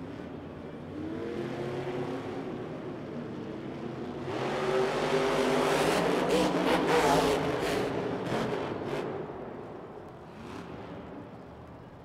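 Monster truck engines revving hard under racing throttle, their pitch rising and falling. The engines grow loudest in the middle, then fade over the last few seconds.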